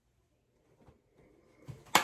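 Near silence, then a soft thump near the end, followed at once by a short, sharp click.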